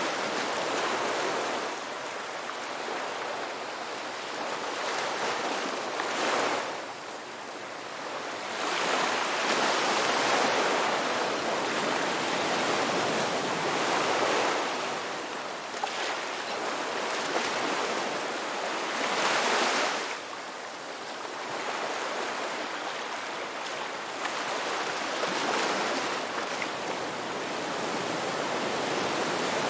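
Ocean waves washing onto a rocky beach, a steady rushing surf that swells and ebbs every few seconds as each wave breaks and draws back.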